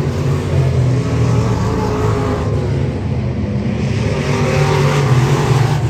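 Race car engines running on the speedway, growing louder twice as cars pass.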